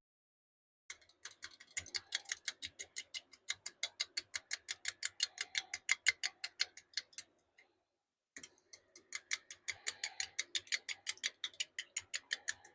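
A knife stirring liquid plastisol in a mixing cup, clinking against the sides about five times a second in two runs, with a pause of about a second near the middle.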